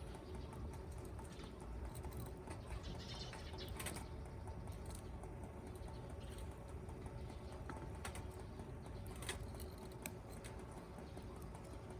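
Wood fire crackling: scattered small pops and ticks at irregular times over a low steady rumble.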